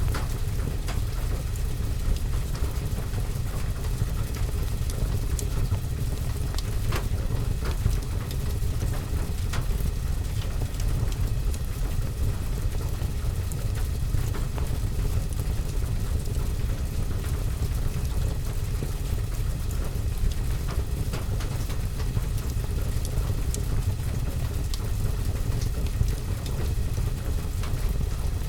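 Steady rain pattering on a window and roof over a low, even rumble, with scattered sharp pops and clicks from a crackling wood fire.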